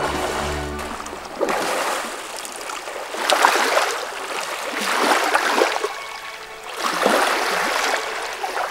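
Wet splashing and sloshing of mud and water as an elephant plays in a mud pit, coming in surges about every two seconds. Background music fades out about a second in.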